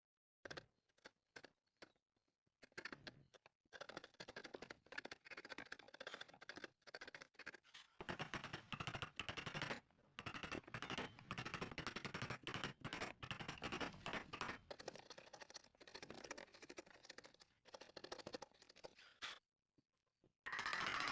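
Tools working wood: dense scratching and clicking that starts in scattered clicks and thickens after a few seconds, then cuts off suddenly near the end.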